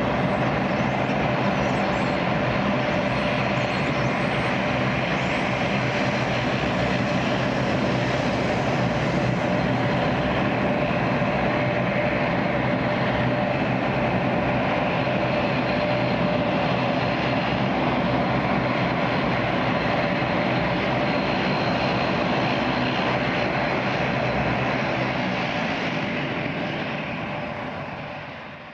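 Jet aircraft engines running steadily, fading out near the end.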